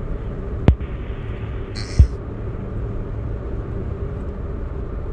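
Steady low rumble of a car on the move, heard over a phone line, with two sharp clicks a little over a second apart early in the sound.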